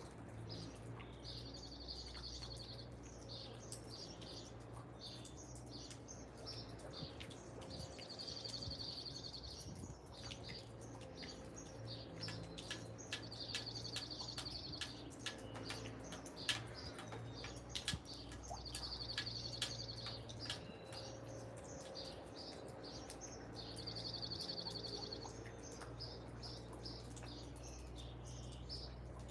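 Backyard wild birds calling: a short, high trill repeats about every five to six seconds, with scattered quick chirps and chips in between. A steady low hum of background noise runs underneath.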